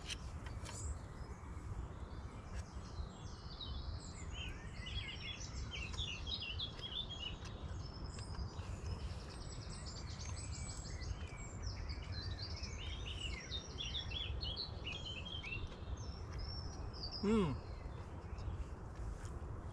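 Several birds chirping and trilling over a steady low background rumble.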